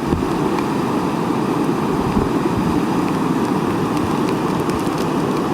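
Heavy rain pouring down steadily, with wind gusting against the microphone in low thumps.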